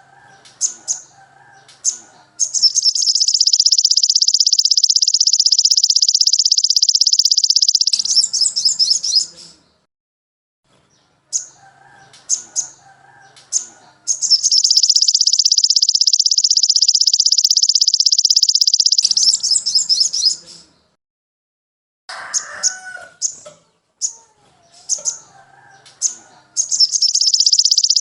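Looped songbird tutor recording: a few short sharp chirps, then a long, very rapid high-pitched trill lasting about five seconds, the cycle repeating three times with short pauses between.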